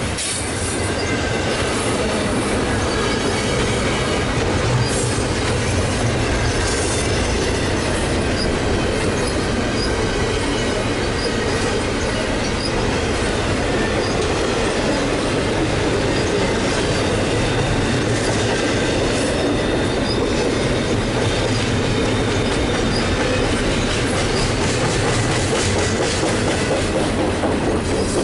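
Double-stack intermodal container well cars of a freight train rolling past: a steady, loud rumble and rattle of steel wheels on the rails.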